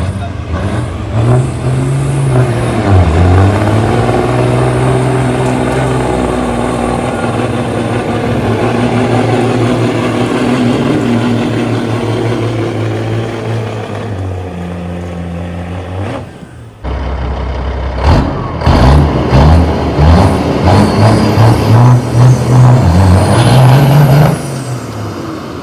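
Straight-piped Caterpillar 3406E inline-six diesel in a semi truck running hard at high revs under load, pulling a sled. The pitch dips about three seconds in and climbs back, then it runs steady; after a sudden break there is a second loud stretch with rapid surges before it drops away near the end.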